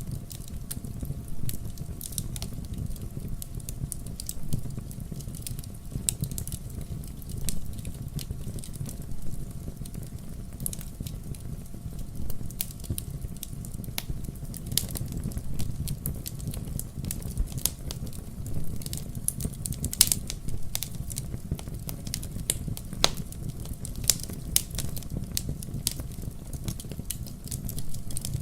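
Wood fire burning in a fireplace: a steady low rumble of flames with frequent sharp crackles and pops, the loudest snaps about two thirds of the way in.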